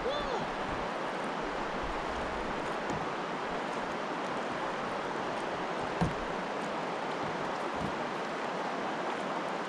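Steady rush of river water running over a rapid, with a single knock about six seconds in.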